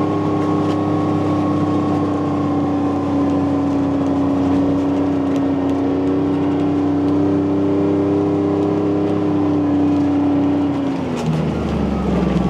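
Small farm vehicle engine running steadily while driving, its pitch dropping about eleven seconds in as it slows.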